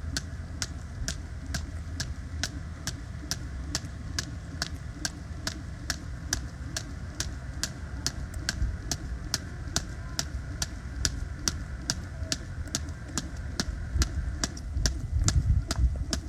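1 lb weighted jump rope slapping the ground once per turn, a steady rhythm of sharp ticks about two a second, over a steady low rumble.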